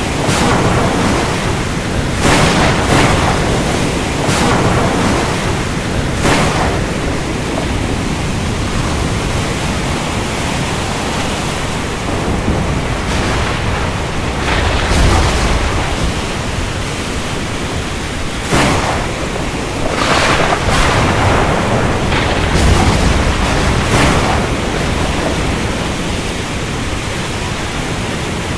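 Thunderstorm at sea: a steady rush of wind and waves with surging washes every few seconds. Deep rumbles of thunder come about halfway through and again a few seconds later.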